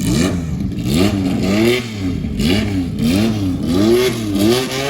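A car engine being revved in a quick series of throttle blips, the pitch rising and falling with each blip.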